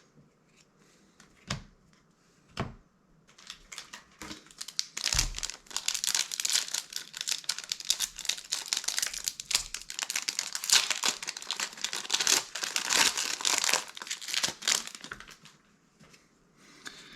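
Foil wrapper of a Magic: The Gathering set booster pack being torn open and crinkled by hand: a few soft knocks, then a dense crackling run lasting about twelve seconds.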